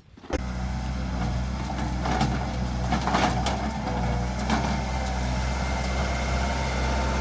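Skid steer engine running steadily, with a few light knocks.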